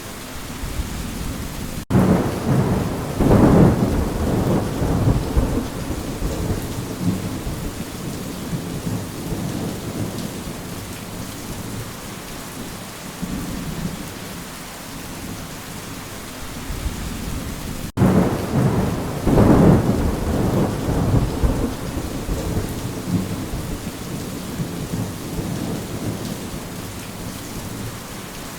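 Steady rain with thunder: a low rumble starts abruptly about two seconds in and dies away over several seconds, and a second one comes in the same way a little past the middle.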